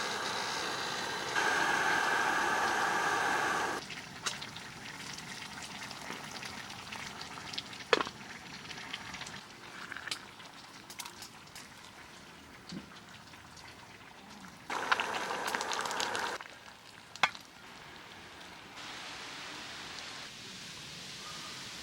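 Food sizzling and frying in a pan, in stretches that come and go louder, with a few sharp clicks.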